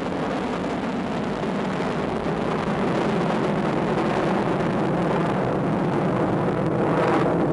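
Delta II rocket's first-stage main engine and six ground-lit solid rocket boosters burning in the seconds after liftoff: a dense, steady rumbling roar that grows slightly louder toward the end.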